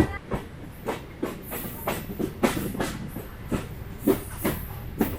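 MEMU electric multiple-unit train running on the line, its wheels clattering over rail joints in quick, uneven knocks over a steady rumble.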